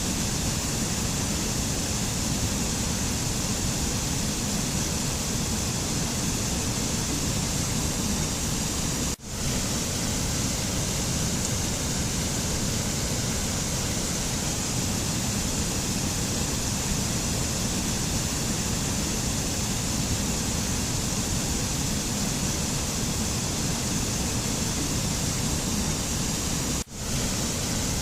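Steady rushing noise of a mountain nature soundscape, even and unbroken except for two split-second dropouts, about nine seconds in and near the end.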